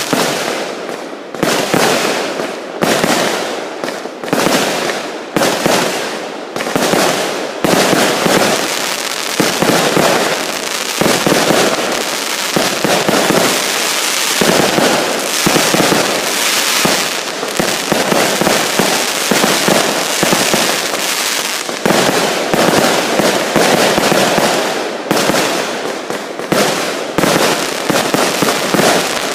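Fireworks and firecrackers going off in a dense barrage of bangs and crackling, in short bursts with brief breaks for the first several seconds, then a near-unbroken stream.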